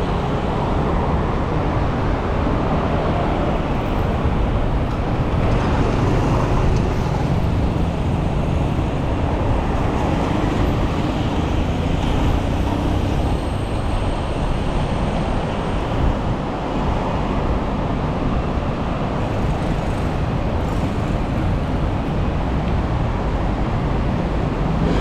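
Steady city road traffic: a continuous wash of passing cars and engines heard from a bicycle on a busy street.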